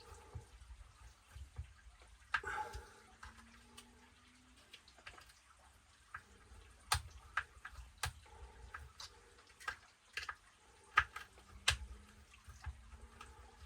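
Scattered small clicks and taps of a hand tool and parts as screws on an RC truck's gearbox are done up by hand, a few sharper ones in the second half.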